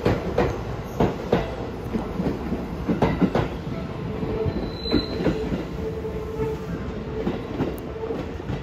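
Seibu 101 series electric train pulling away from the platform, its wheels clicking over rail joints and points over a steady rumble. A steady wheel squeal comes and goes in the second half.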